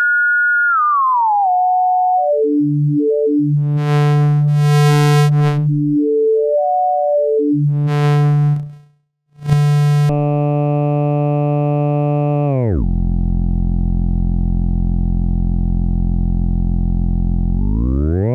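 Synthesis Technology E950 circuit-bent Eurorack oscillator playing a stepped sequence of notes. It moves from a pure tone gliding down to brighter, buzzier notes, then cuts out briefly about nine seconds in. It then holds a steady buzzy tone that sweeps down to a low drone and starts gliding back up near the end.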